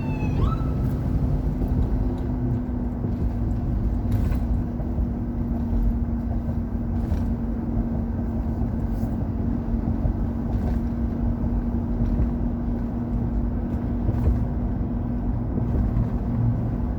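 Steady road and engine noise heard from inside a moving car, a low rumble with a constant hum, and a few faint clicks.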